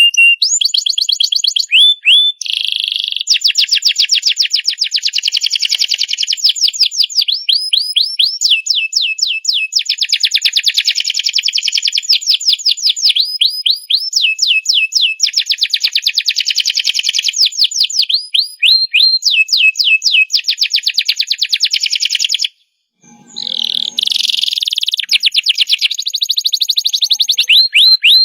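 Domestic canary singing a long unbroken song of fast trills and rolls, rapid repeated high notes that switch to a new phrase every second or two, some phrases sweeping upward. The song breaks off for about half a second about three-quarters of the way through, then carries on.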